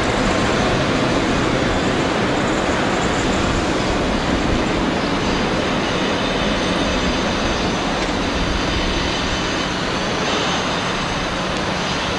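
Electric locomotive rolling through the station: a steady rumble of wheels on rail that slowly gets quieter as it moves away. A faint high wheel squeal comes in about halfway through.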